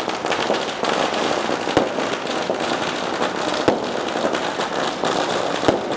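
Long string of firecrackers going off in a continuous rapid crackle, with louder single bangs about every two seconds.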